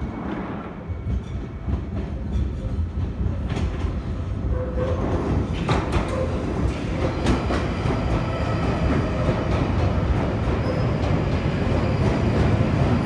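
A London Underground 1995 Stock train running into the platform. Its low rumble builds up over the first couple of seconds and then holds, with sharp clicks from the wheels over the rail joints.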